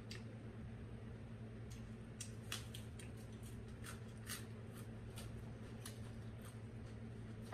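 Eating sounds: irregular crisp crunches and smacks of chewing fresh raw greens, over a steady low hum.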